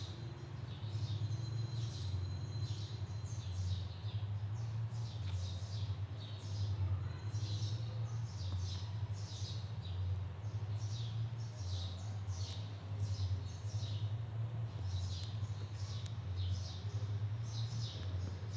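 Small birds chirping in the background: short, high chirps coming irregularly, several a second, over a steady low hum.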